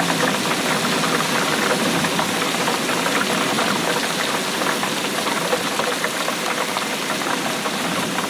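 Steady rainfall, a dense patter of many small drops hitting a surface without a break.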